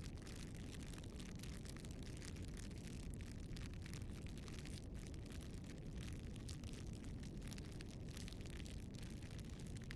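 Flame of a Spartherm ebiosfire bioethanol fireplace burning with a faint, steady low rushing noise and no distinct pops or crackles.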